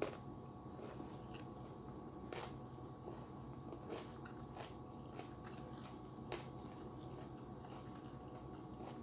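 Close-up eating sounds: soft chewing with scattered short clicks and smacks as rice and meat are eaten by hand, over a faint steady hum.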